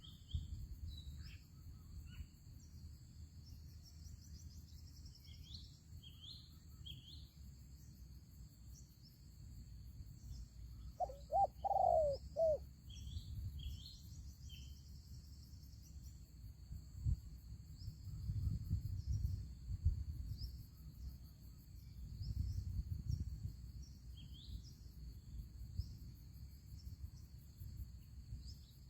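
A spotted dove gives one short, several-note coo about eleven seconds in. Small birds chirp at intervals, over a steady high insect drone and a low rumble.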